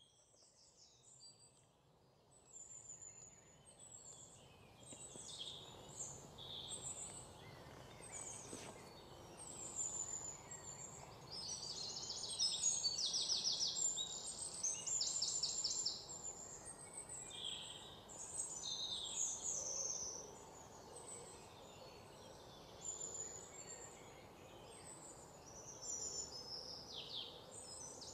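Songbirds chirping and singing, many short calls with a couple of rapid trills, over a steady background hiss; the sound fades in over the first few seconds.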